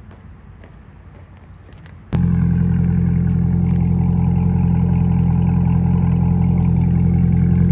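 2024 Corvette E-Ray's 6.2-litre V8, through an AWE Tuning track exhaust, starting about two seconds in. It fires at once to a loud, steady idle.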